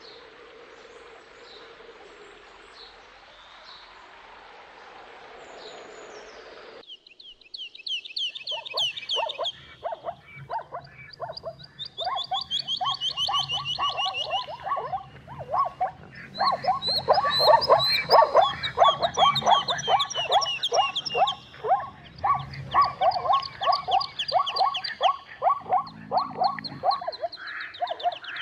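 A few seconds of quiet outdoor ambience, then, about seven seconds in, zebras calling: a chorus of rapid, repeated barking yelps from several animals overlapping, with high chirping trills over them.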